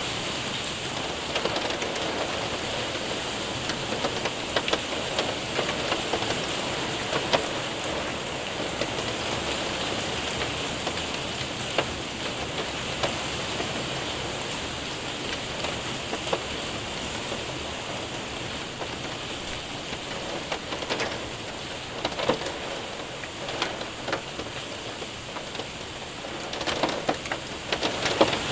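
Rain and hail hitting a window and roof: a steady dense patter with scattered sharp ticks of hailstones striking, which come thicker near the end.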